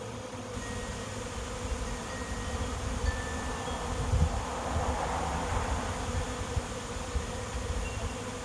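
A honey bee swarm buzzing: the steady hum of many bees flying in to a swarm trap, swelling a little about halfway through, over an uneven low rumble.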